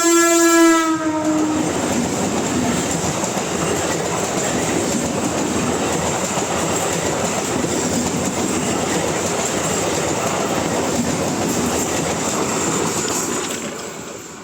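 Electric train's horn blowing, dropping slightly in pitch as it cuts off about a second in. Then the steady rumble of the train passing close by, fading near the end.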